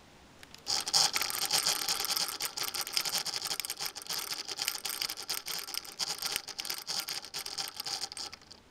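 Sony VAIO VGN-CS220J laptop's cooling fan grinding and rattling with rapid, irregular clicks, starting suddenly under a second in and cutting out near the end. The fan is faulty, a known defect on this model that Sony acknowledged.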